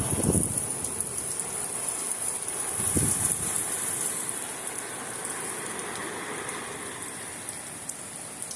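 Steady heavy rain falling, with a couple of short low thumps, one at the start and one about three seconds in.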